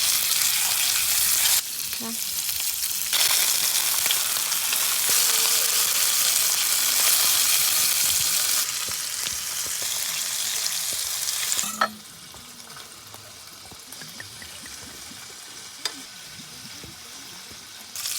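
Pork belly sizzling in oil in a pan on a portable gas grill: a loud, steady sizzle that breaks off briefly near two seconds and drops to a much fainter sizzle about twelve seconds in, with a couple of sharp taps.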